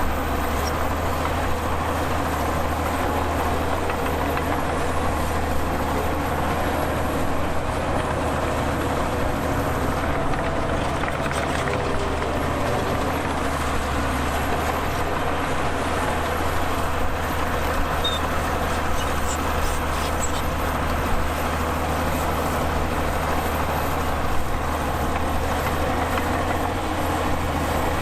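Heavy diesel earthmoving machinery, bulldozer and dump truck engines, running steadily at a constant, loud level.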